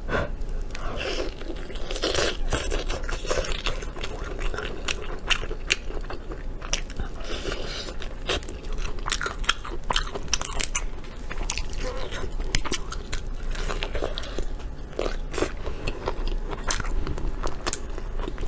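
Close-up eating: biting into and chewing a deep-fried leg, its crisp fried coating crunching and crackling again and again at an irregular pace.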